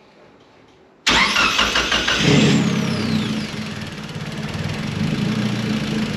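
Mitsubishi Evo turbocharged four-cylinder engine cranked by its starter for about a second, then catching and settling into a steady idle. A brief falling whine comes just as it catches.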